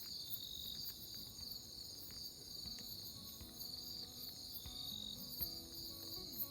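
Insects chirping in a steady chorus of high, pulsing trills, with faint scattered ticks underneath.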